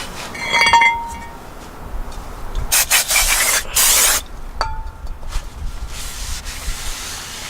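Metal brake parts clinking twice, each strike ringing briefly, about half a second in and again past the middle. Between the strikes come short bursts of hissing and rubbing noise.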